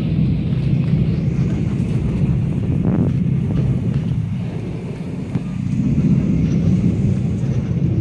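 Mugunghwa-ho passenger train running at speed, heard from inside the carriage as a steady low rumble of wheels on rail. The rumble eases a little about halfway through, then builds again.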